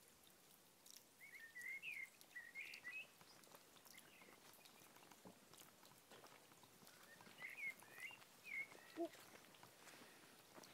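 Faint bird song: two short phrases of quick wavering chirps, about a second in and again about seven seconds in, over quiet outdoor ambience with a few faint ticks.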